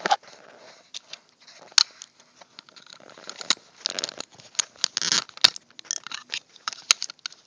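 Plastic pry tool scraping and clicking against the plastic housing and hinge of a Garmin nuvi GPS as the hinge is worked loose. Irregular sharp clicks, with a few short scraping spells around the middle.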